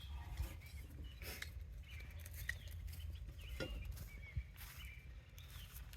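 Faint bird chirps and a few light knocks over a low steady rumble.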